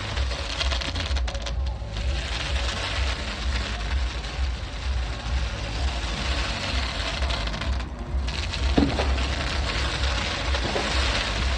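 Fireworks crackling densely: a steady hiss of many small cracks that thins briefly about a second and a half in and again around eight seconds.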